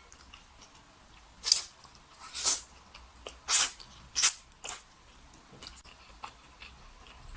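A person slurping wide oil-splashed noodles (youpo mian) into the mouth in about five short, loud slurps over the first five seconds, with fainter mouth sounds after.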